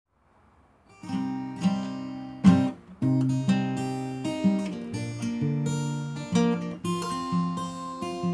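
Acoustic guitar intro, strummed chords starting about a second in, with a sharp accented strum about two and a half seconds in followed by a brief pause.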